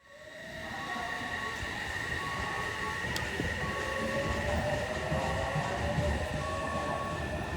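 Odakyu electric commuter train running through a station: a rumble with a motor whine that rises slightly in pitch, under a steady high tone. A short electronic tone repeats about every second and a half.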